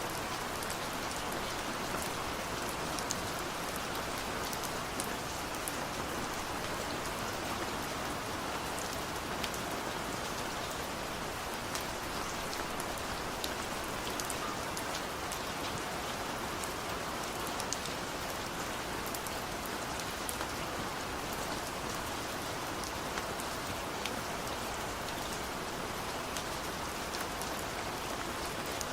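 Heavy rain falling steadily, a dense even hiss with many sharp individual drop hits.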